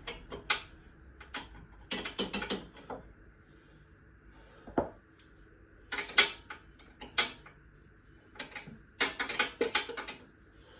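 Sockets and a ratchet wrench clicking and clinking in short bursts as sockets are swapped and tried on a bolt to find the right size.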